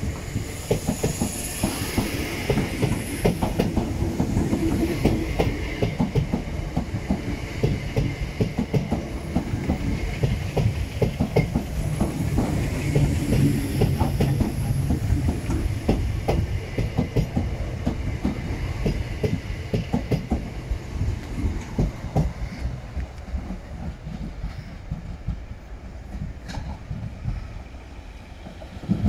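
Greater Anglia electric multiple-unit train running past the platform, its wheels clattering over rail joints and crossover points over a low rumble. The clatter thins out and quietens about three quarters of the way in.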